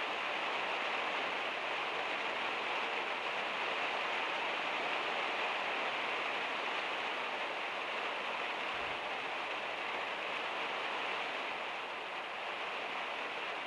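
Heavy rain falling steadily on a van's metal roof, an even hiss.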